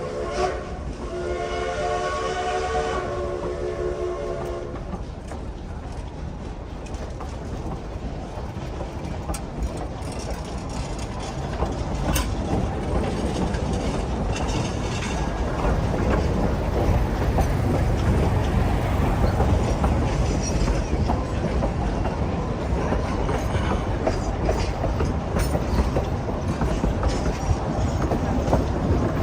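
Steam locomotive whistle blowing a chord for the first few seconds, with a short break about half a second in. Then the narrow-gauge steam train's rumble, with wheels clacking over rail joints, growing louder about halfway through as the train goes by.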